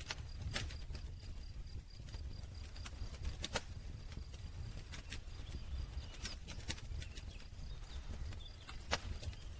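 Wood campfire crackling: irregular sharp pops and snaps, the loudest about half a second in, about three and a half seconds in and near the end, over a steady low rumble of the burning fire.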